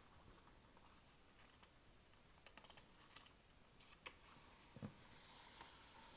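Near silence: room tone with a few faint light clicks, a soft thud about five seconds in.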